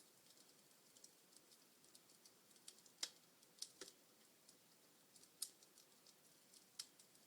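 Wood fire crackling in a fireplace: irregular sharp pops and snaps from the burning logs over a faint steady hiss, with the loudest snaps about three seconds and five and a half seconds in.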